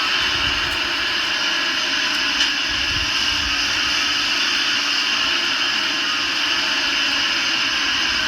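A small portable carpet-cleaning machine (carpet shampooer/extractor) running steadily, its motor whining at a high pitch.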